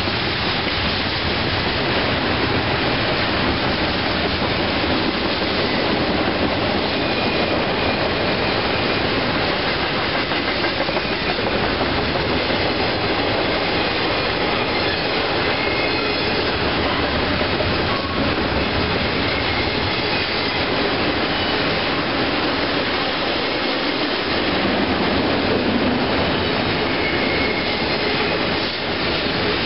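Intermodal freight train's double-stack and trailer cars rolling by: a steady loud rush and rumble of steel wheels on rail, with faint short wheel squeals now and then.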